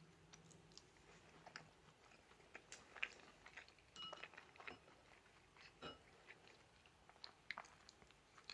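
Faint, close chewing of a soft piece of sweet potato, with scattered small clicks and mouth sounds.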